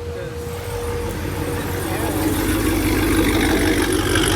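Car engine running at idle, growing steadily louder, with a steady tone that fades out in the first second or so.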